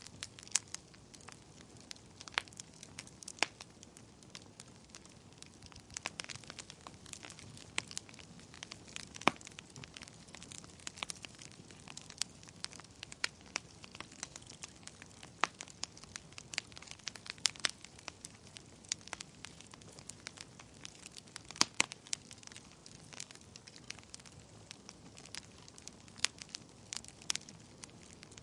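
Wood fire burning in a fireplace: a steady soft hiss with frequent sharp, irregular crackles and pops, a few louder pops standing out.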